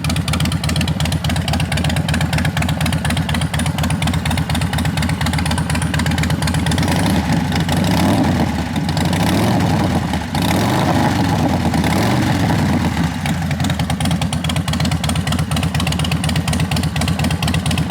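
Harley-Davidson Dyna Street Bob V-twin idling with a lumpy, uneven beat through Screamin' Eagle exhaust, revved up and down a few times in the middle before settling back to idle.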